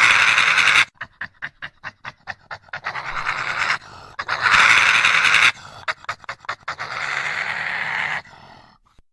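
Dinosaur creature sound effect: long breathy hisses alternating with runs of quick panting puffs, about six a second, ending in a fading hiss.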